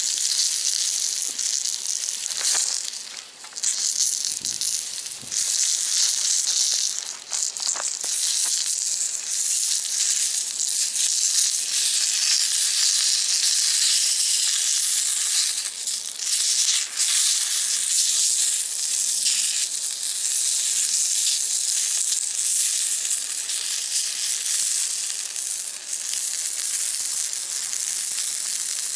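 Food sizzling steadily in a small cast-iron skillet over a wood-burning box stove, a continuous high hiss with a few faint crackles.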